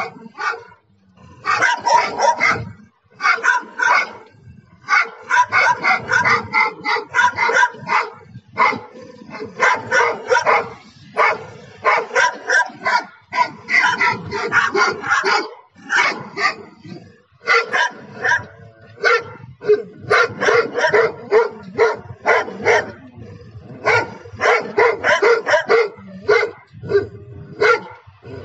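A big dog barking over and over in quick runs of barks, with short pauses between the runs.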